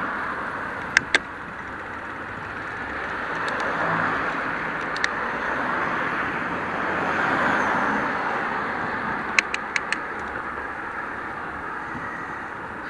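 Road traffic with cars passing one after another, their noise swelling and fading. A few sharp clicks sound over it: two about a second in and four in quick succession near the end.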